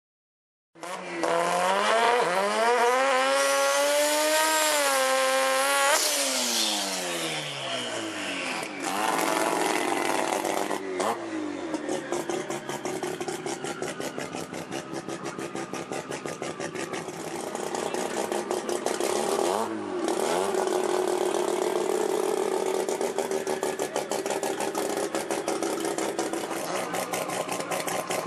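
Turbocharged Mazda RX-7 rotary engine revving: held high for about five seconds, then falling away, a short blip around ten seconds in, then settling into a fast, choppy idle that swells briefly near twenty seconds in.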